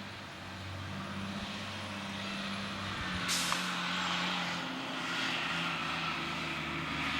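School bus engine running and slowly growing louder as the bus comes up. About three seconds in comes a sudden sharp hiss of its air brakes, which then fades.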